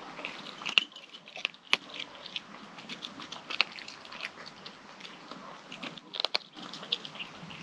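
A kitten eating its food, with irregular small crunching and chewing clicks and a few sharper clicks among them.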